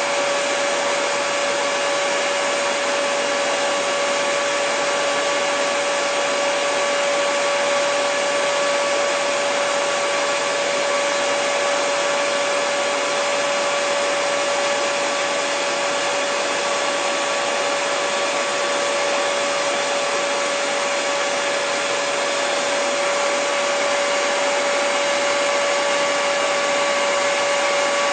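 Electric hair dryer running steadily: an even rush of blown air with a constant motor whine.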